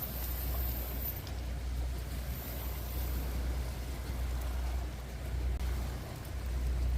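Wind buffeting the microphone: a steady low rumble that swells and dips slightly.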